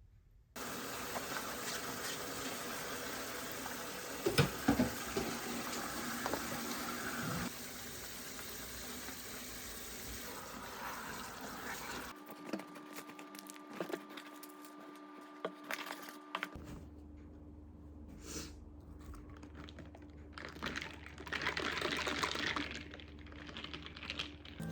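Water running steadily, as from a tap, with a few sharp knocks around four to five seconds in; it cuts off abruptly about halfway, followed by quieter scattered clicks and light handling noises.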